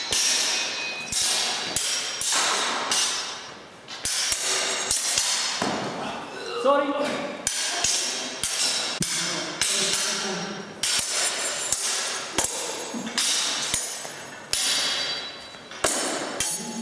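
Repeated sharp knocks, irregular and a few a second, each ringing briefly, with voices talking in between.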